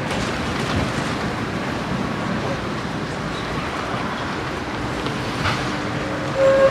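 Tram running along its rails, with a steady rumbling noise and a sharp click about five and a half seconds in. A steady pitched tone starts near the end.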